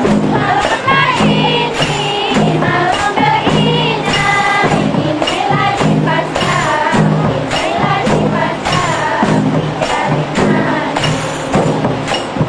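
Rebana frame drums played in a steady beat, with voices singing a wavering melody over them.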